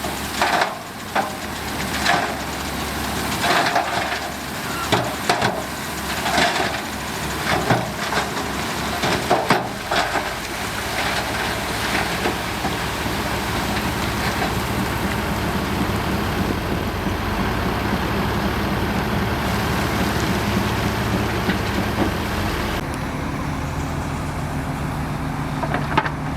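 Heavy diesel construction machinery running. For the first ten seconds or so there is irregular crunching and clattering of soil and rock, and after that a steady engine drone that changes pitch once near the end.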